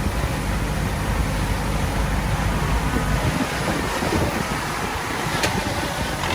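Heavy diesel machinery running with a steady low engine rumble, and a short click about five and a half seconds in.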